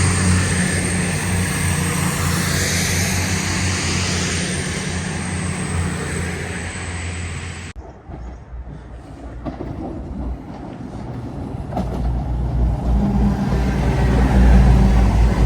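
A train running through the station with a low engine hum and a high steady whine. The sound cuts off abruptly about halfway through, then a low rumble from a train builds up again towards the end.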